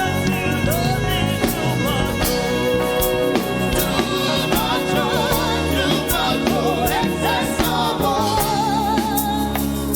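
Gospel praise-and-worship music: singing over a band with a steady beat.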